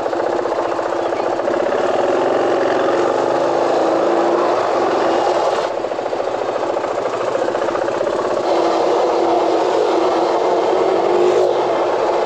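KTM 500 single-cylinder four-stroke engine running steadily while riding in city traffic, its pitch shifting a little in the middle as the engine speed changes.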